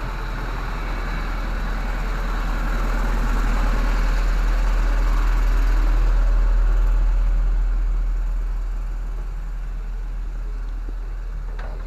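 An engine running with a deep steady hum, growing louder toward the middle and then easing off.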